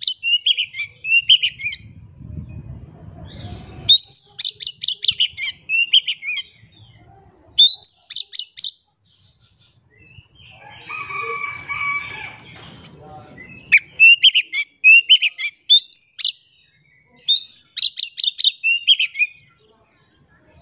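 Oriental magpie-robin (kacer) singing loudly in repeated phrases of fast, sharply rising high whistled notes, each phrase a second or two long with short pauses between. A little past the middle comes a lower, harsher call of about three seconds.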